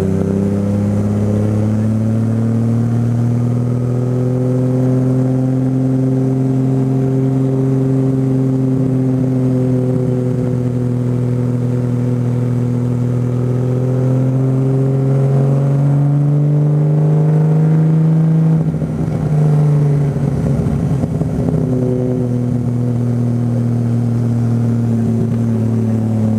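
Bee-R Skyline GT-R's twin-turbo 2.8-litre RB26DETT straight-six running at steady, moderate revs that climb slowly. About two-thirds through there is a brief lift, then it holds steady again.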